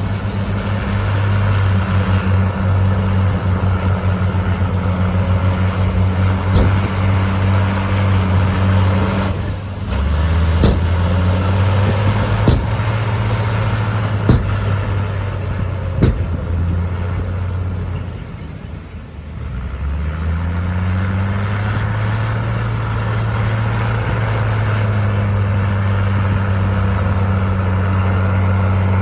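Bulldozer's heavy diesel engine running under load. Its pitch sags and recovers twice as the load comes on and eases. A handful of sharp metal clanks sound through the middle.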